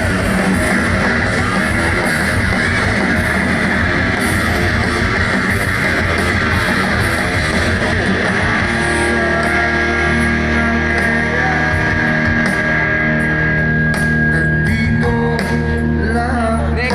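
Loud rock music with distorted electric guitar and drums; about halfway in the guitars settle into long held chords.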